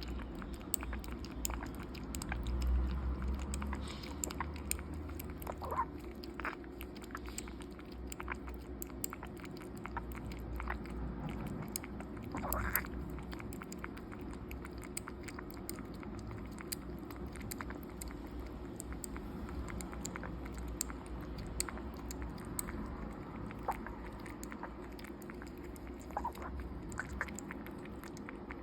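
A kitten's mouth at work as it feeds close up: many small wet clicks and smacks, steady and irregular, over a low hum.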